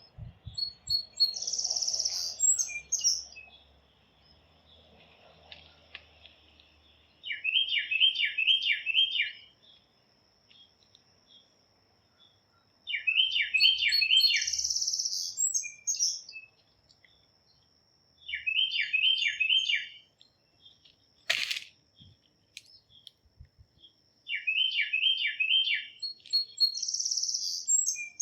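Songbird singing a phrase of four or five quick, repeated downslurred notes about every five to six seconds, with shorter high chirps between the phrases. A faint steady high tone runs behind, and a single sharp click comes about twenty-one seconds in.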